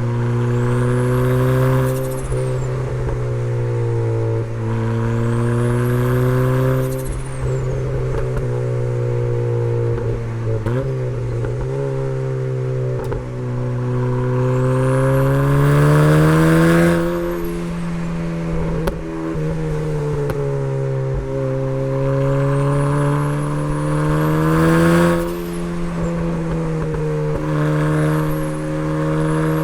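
Turbocharged four-cylinder engine of a first-generation Mazda MX-5 (Miata), repeatedly accelerating hard and easing off on a hill climb. Its pitch climbs and drops several times, and a high turbo whistle rises and falls during several of the pulls.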